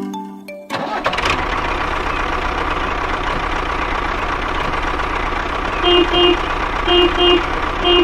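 Mini tractor engine running steadily with a low rumble, starting about a second in. From about six seconds, a double beep sounds three times, about once a second.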